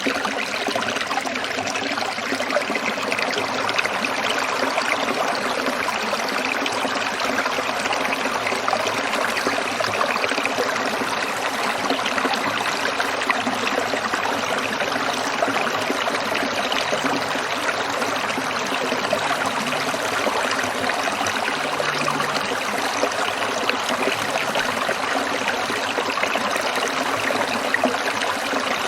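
Small stream trickling and babbling over rocks, a steady rush of running water.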